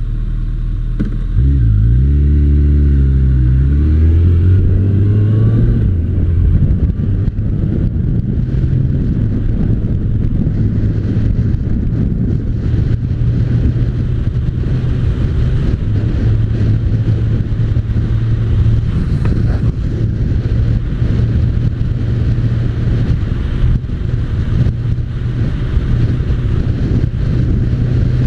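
Motorcycle engine idling, then pulling away about a second and a half in, its note rising and dropping through a few gear changes before settling into a steady cruise.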